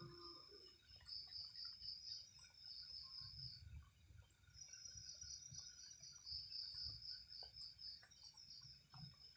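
Faint night insects, crickets, trilling in high, pulsing stretches that stop and start, with soft low rumbles underneath.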